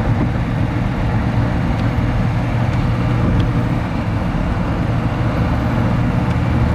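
Mercedes-Benz 280SE's 2.8-litre DOHC inline-six (M110) running steadily while the car is driven, with steady road noise and the AC compressor switched off.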